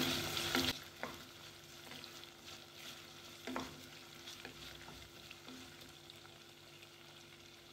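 Shallots, green chillies and curry leaves frying in hot coconut oil with a faint sizzle, stirred with a wooden spatula in a nonstick pot. The spatula scrapes and knocks against the pot a few times, most clearly about three and a half seconds in.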